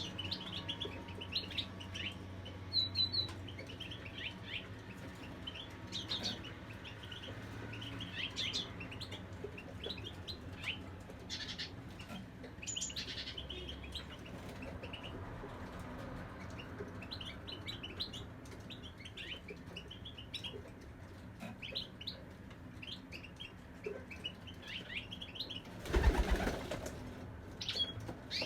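Small cage birds, goldfinches, chirping and twittering in short high calls throughout. Near the end comes a brief, loud flutter of wings.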